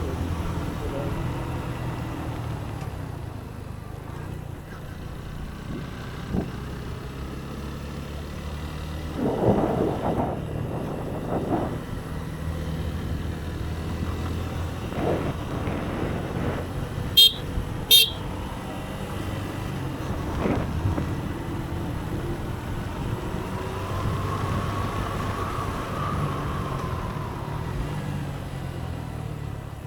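Motorcycle engine running steadily on the move, with two short, sharp horn toots a little past halfway.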